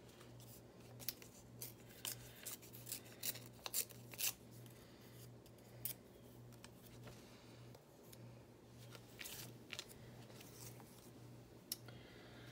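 Scissors snipping through thin magazine paper in short runs of cuts, a cluster in the first few seconds and a few more near the end, over a faint steady low hum.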